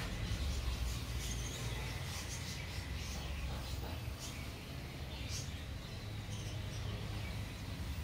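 Small birds chirping: short, high squeaks at irregular intervals over a steady low rumble.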